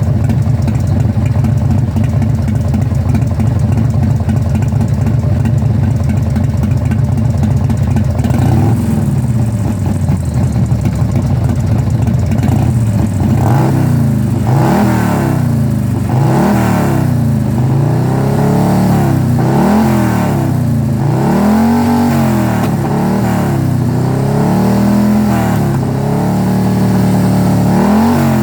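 An engine idling steadily, then revved over and over in short blips from about eight seconds in, each rising and falling back, roughly one every two seconds.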